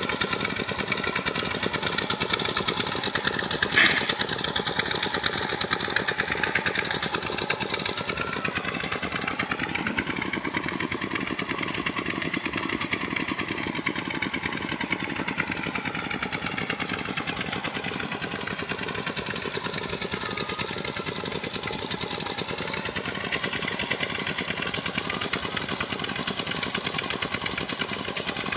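Sand-mining pump engine running steadily with a fast, even chug. Its pitch sags and recovers between about eight and sixteen seconds in. There is one sharp knock about four seconds in.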